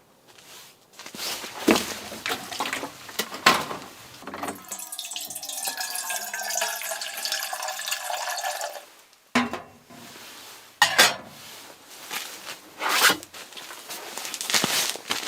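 Liquid pouring or running into a container for about four seconds, between clattering knocks of objects being handled.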